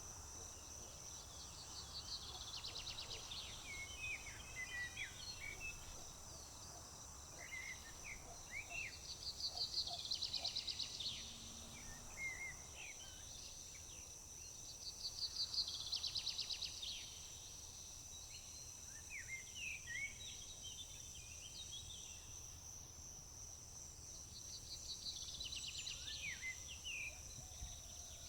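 A songbird singing the same short song four times, each a rapid trill followed by a few quick chirps, over a steady high-pitched drone of crickets.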